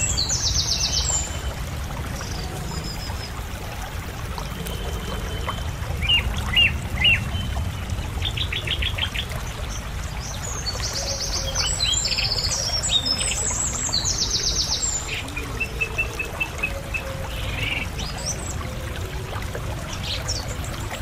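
An unidentified songbird singing: repeated high, rapid trilled phrases and short chirps, with a busy stretch about ten to fifteen seconds in, over a steady low rumble.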